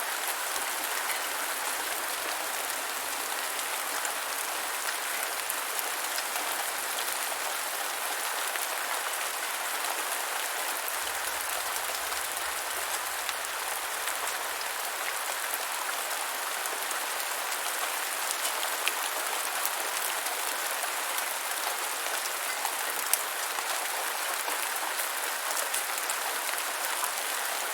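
Steady rain: an even hiss of falling drops with small scattered ticks, unchanging throughout.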